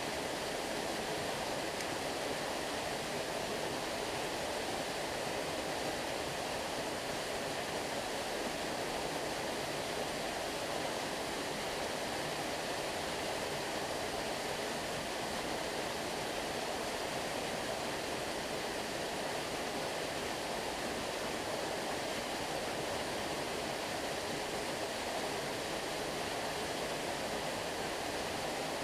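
Flowing stream water rushing steadily, an even, unbroken wash of sound.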